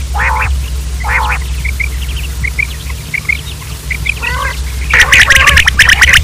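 Quails calling: two short harsh calls, then a run of small high chirps, then a fast harsh chattering series from about five seconds in, over a steady low hum.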